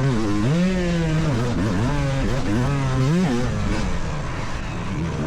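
Two-stroke supercross motorcycle engine heard close up from on board, revving hard and dropping off again several times as the throttle is opened and shut through the track's jumps and turns.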